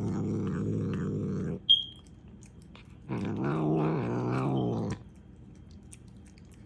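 Cat growling in two long, low growls. The first breaks off about a second and a half in, and the second starts about three seconds in. A short sharp click falls between them.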